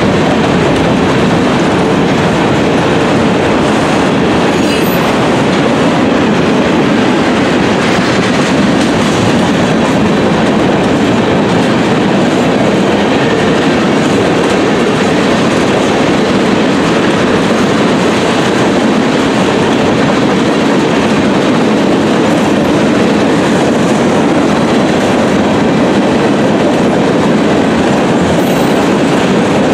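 Freight cars of a passing freight train rolling by close at a steady speed: a loud, continuous rumble of steel wheels on rail.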